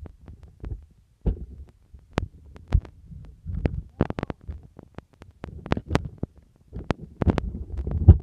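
Handling noise from the recording camera being grabbed and moved by hand: irregular taps, knocks and clicks over low thuds and rubbing on the microphone, denser and heavier near the end.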